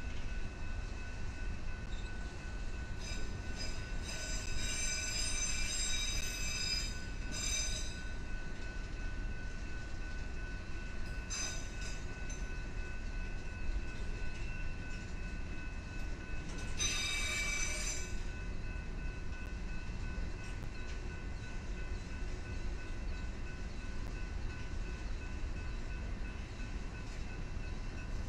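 Freight cars rolling past: a steady low rumble of wheels on rail, broken by several bursts of high-pitched wheel squeal, the loudest about seventeen seconds in.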